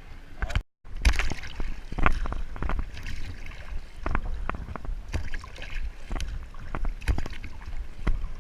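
Kayak paddling on open sea: paddle blades splashing irregularly and water sloshing around the kayak. The sound cuts out completely for a moment just under a second in.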